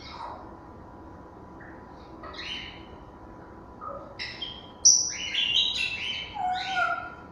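African grey parrots calling: a couple of short calls, then a rapid run of whistles and squawks in the second half, loudest about five seconds in.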